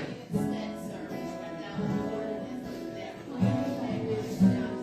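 Instrumental music with guitar, notes plucked and strummed in a steady run.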